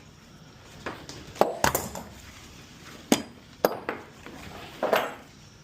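Metal fittings of cargo tie-down straps clanking and knocking as they are handled: several sharp, separate metallic clanks.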